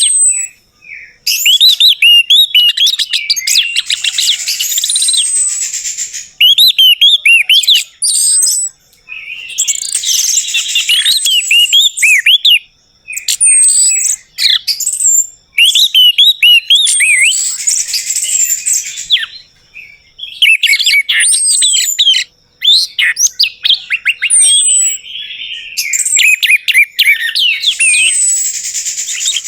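Orange-headed thrush (anis merah) singing: loud, varied phrases of rich whistles and quick notes lasting a few seconds each, broken by short pauses.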